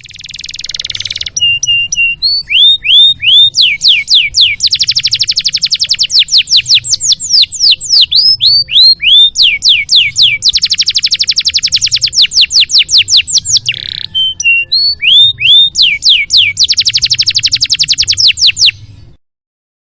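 Domestic canary singing a long, varied song: runs of quick rising whistled notes alternating with very fast rattling trills and a short buzzy phrase. It starts abruptly and cuts off a second before the end.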